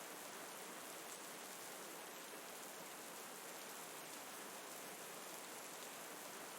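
Steady rain falling, a soft, even hiss without pauses or changes.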